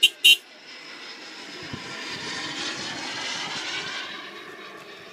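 Radio-controlled Ultra Flash model jet making a fast pass. Its engine noise swells, peaks about three seconds in with its pitch sliding down, and fades away. A run of short, rapid beeps stops just after the start.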